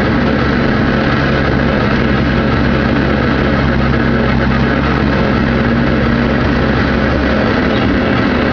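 Diesel engine of a Volvo ECR88 Plus compact excavator running steadily at work.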